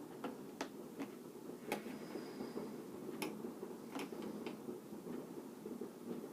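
Knife clicking and tapping on a chopping board while a fresh chilli pod is cut open: about eight sharp, irregular clicks over a low steady background hum.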